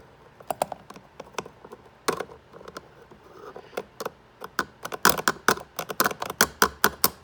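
Needle-nose pliers tapping metal on metal across the Sea-Doo's starter leads: a series of sharp clicks, coming quicker and louder about five seconds in. The starter does not turn over.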